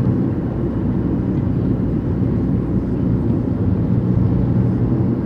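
Car driving on the road: a steady low rumble of engine and tyre noise with a faint even hum.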